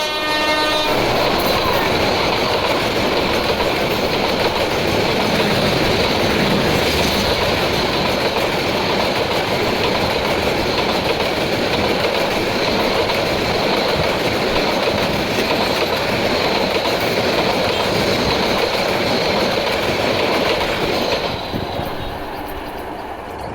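A diesel-hauled passenger train's horn cuts off about a second in. Then the train runs past close by, a loud steady rush of wheels on rail, which dies down near the end.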